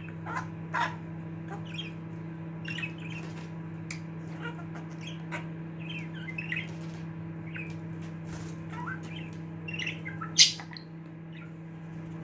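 Budgerigar chattering with short, scattered chirps and warbles, with one sharp loud squawk about ten seconds in. A steady low hum runs underneath.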